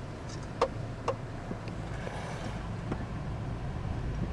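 Steady low rumble of a car running, heard from inside the cabin, with two short sharp clicks about half a second and a second in.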